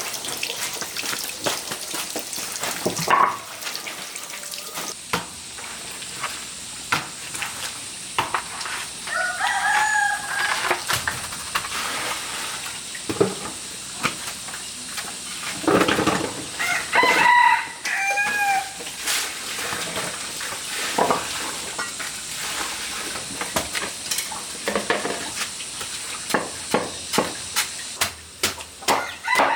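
A rooster crows three times, each crow a curving call of a second or two. Frequent sharp clicks and knocks run throughout and come faster near the end, over a steady hiss.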